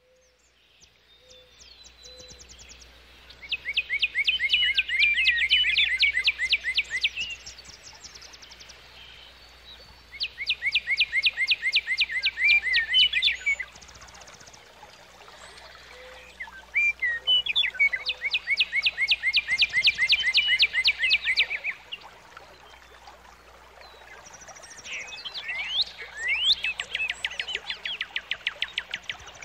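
A songbird singing in long bouts of fast, evenly repeated notes, four bouts of three to five seconds each with short pauses between.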